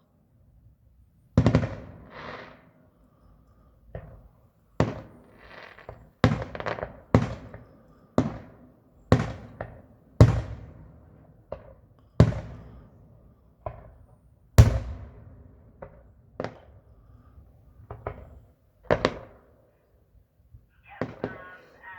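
Aerial fireworks shells bursting in an irregular string of sharp bangs, each trailing off in a short echoing tail, some coming in quick pairs.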